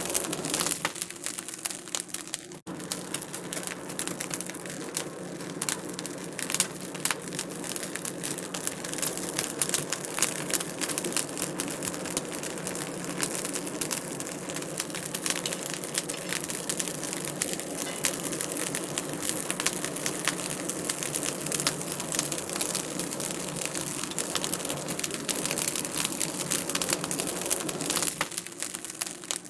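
Wood fire crackling in a fireplace: a dense, steady stream of small pops and snaps over a soft hiss, with a momentary gap about two and a half seconds in.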